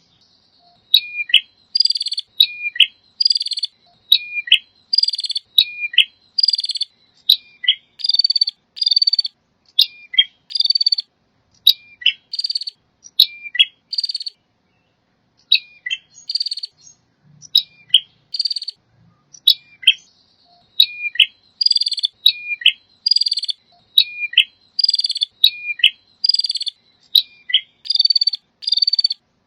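Male prinia (prenjak) singing: loud, sharp high-pitched chirping phrases repeated over and over in a fast steady rhythm, with a short break about halfway through.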